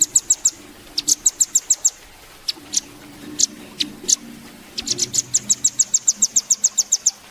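Velvet-fronted nuthatch (red-billed 'rambatan') calling in fast trills of sharp, high chips, with a few single chips between; a longer trill of about fifteen chips comes in the second half.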